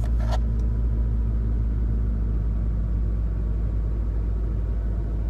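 1996 Honda Accord engine idling steadily just after a restart, only partly warmed up after about two minutes of running in sub-freezing cold.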